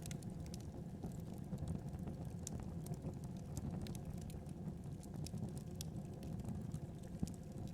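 Fire burning in a fireplace: a steady low rush of flames with frequent small, irregular crackles and pops.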